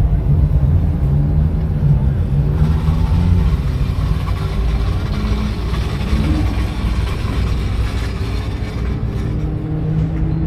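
Classic racing car engines running, the pitch holding fairly steady with small rises and dips rather than full revving.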